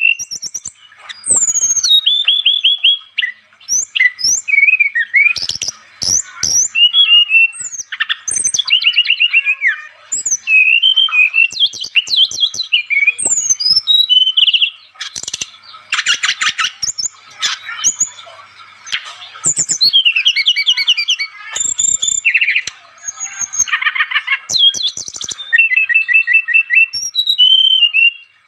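An SRDC songbird in full, energetic song (gacor): a fast, almost unbroken stream of varied whistles, chirps and rapid trills, with brief pauses between phrases.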